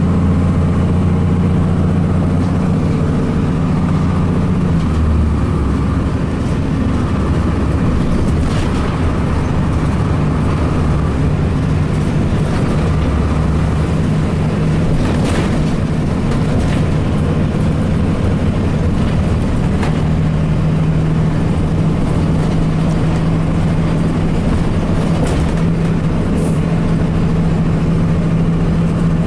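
2002 Blue Bird CS transit bus's Cummins ISC inline-six diesel engine running steadily, its pitch shifting a few times, with a few short rattles.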